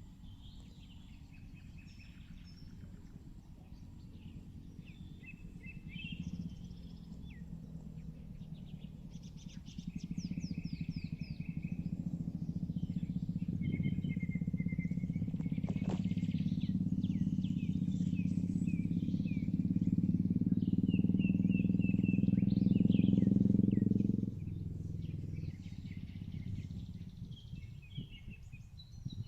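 Outdoor ambience of birds chirping and trilling, over a low, steady engine-like hum. The hum grows louder over several seconds and then drops away suddenly about five seconds before the end.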